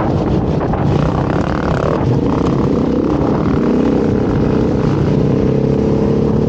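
Beta dirt bike engine running under way, its pitch dipping and rising again with the throttle.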